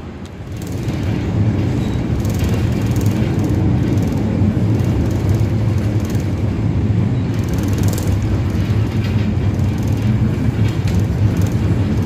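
Diesel-hauled local passenger train running: a steady, low-pitched noise of the CC201 locomotive and the wheels on the rails, which grows louder about a second in and then holds level.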